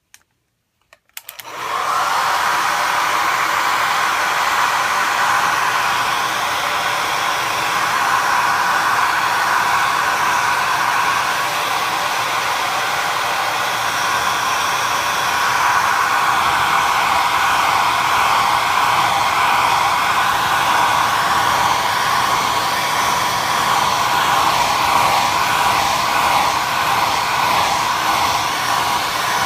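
Hand-held hair dryer switched on with a few clicks about a second in, then blowing steadily.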